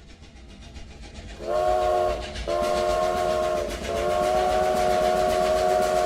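A train's rumble grows louder, then its multi-tone whistle blows three times: two shorter blasts and a long one.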